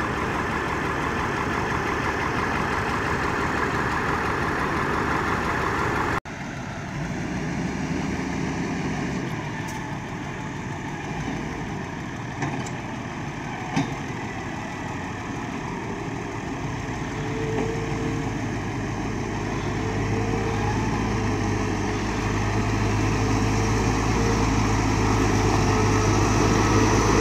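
Tractor engines running as a tractor-and-trailer combination sets off along a farm track. The sound breaks off abruptly about six seconds in, then carries on. A steady low engine hum grows louder toward the end.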